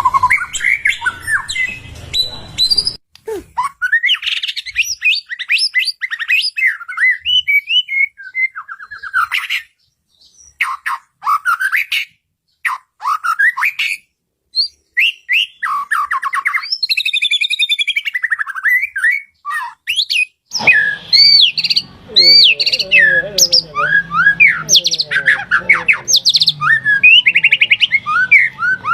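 White-rumped shama singing a fast, varied song of whistled notes, slurs and trills, broken by a few short pauses. Two-thirds of the way through, a low steady hum comes in under the song.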